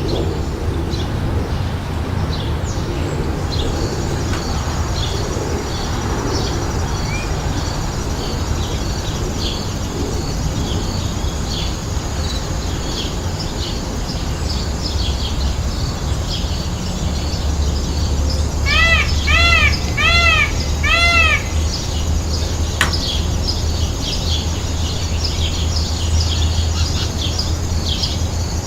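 Many small birds chirping continuously. About two-thirds of the way through, a run of five loud arched calls, each rising then falling, stands out. A steady low hum lies underneath.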